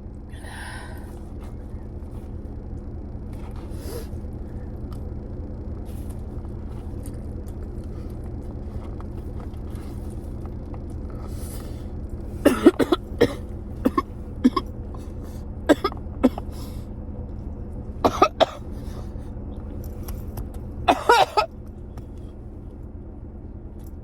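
A man coughing in short harsh fits, bunched in the second half, from choking on rice that went down the wrong way. A steady low hum runs underneath.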